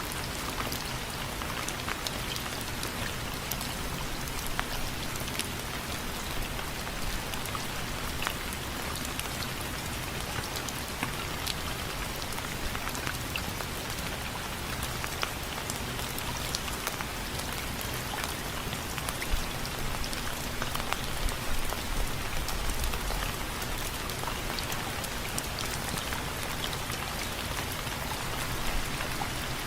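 Steady rain falling on a window frame: an even hiss dotted with many separate sharp drop taps, and a few louder low knocks about twenty seconds in.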